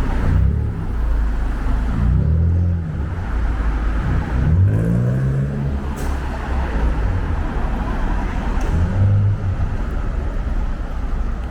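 City street traffic: a deep engine rumble with cars running and passing, the engine pitch rising and falling several times, one vehicle accelerating about halfway through.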